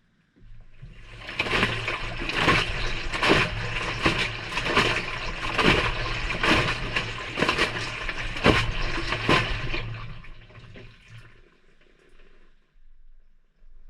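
Water splashing and rushing inside a Maytag front-loading washer's drum, heard from inside the drum over a low motor hum. A regular splash comes a little more than once a second, about ten in all. The sound builds over the first second or two, then dies away and stops about eleven seconds in.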